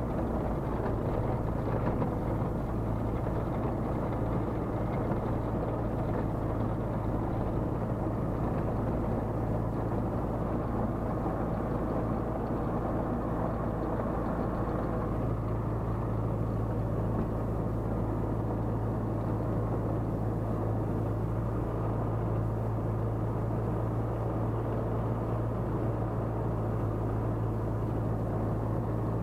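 Tecnam P96 Golf light aircraft's Rotax 912 flat-four engine and propeller running steadily at low, ground-taxi revs, with a steady low drone; the pitch rises slightly about halfway through.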